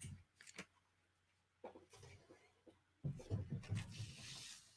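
Quiet handling of paper and a hole punch: a few faint taps early, soft low knocks about three seconds in, and a short paper rustle near the end.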